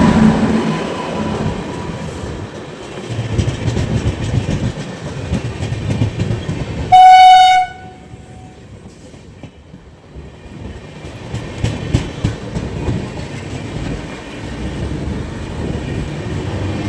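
Kolkata EMU electric local train running through a station, its wheels rumbling and clattering on the rails. A single short horn blast about seven seconds in is the loudest sound. Afterwards the rumble drops, with scattered clicks of wheels over rail joints before it builds again near the end.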